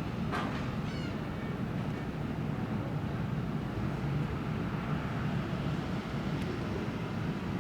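Steady low rumble of a departing car ferry's engines, heard through a terminal window, with a brief click about half a second in.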